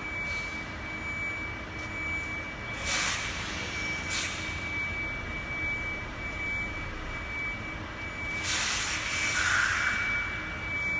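Heavy lifting truck running low and steady under a constant high whine, with short bursts of hiss about three and four seconds in and a longer hiss near the end.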